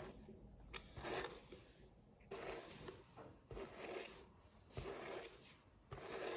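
A massage hairbrush's bristles drawn through hair in slow, repeated strokes, a soft rustling swish about once every second or so.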